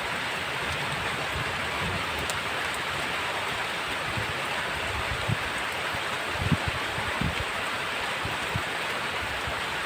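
Heavy rain falling steadily, a dense, even hiss. A few brief low thumps come in the second half.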